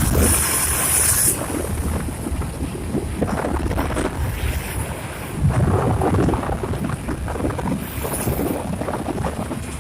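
Wind buffeting the microphone, a low, gusting rumble over road traffic noise.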